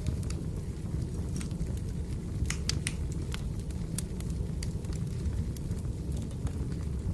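Wood fire crackling: irregular sharp pops and snaps over a steady low rumble, with a cluster of pops in the middle.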